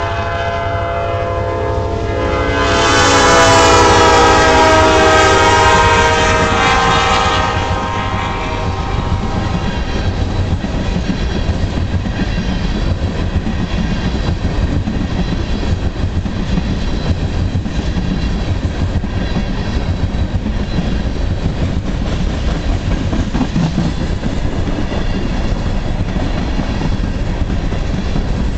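Freight train passing close by. The locomotive's air horn sounds loudly and drops in pitch as it goes by, then fades out about eight seconds in. After that the train's cars roll past with a steady rumble and a rhythmic clickety-clack of wheels over the rail joints.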